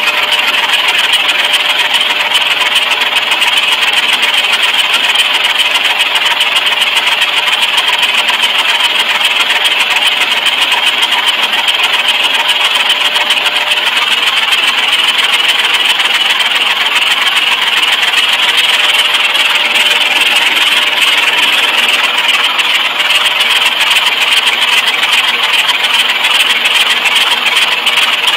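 Rebuilt 427 big-block Chevrolet V8, a 435 hp L71 with tri-power carburettors and solid lifters, running steadily at an even speed on its test run.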